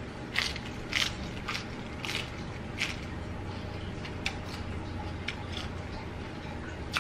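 Crisp romaine lettuce leaf being bitten and chewed: about five loud crunches in the first three seconds, then softer, sparser chewing clicks.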